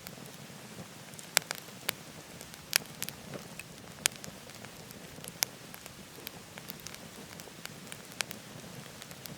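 Firewood burning in a wood stove, crackling, with a handful of sharp pops over a steady rushing hiss.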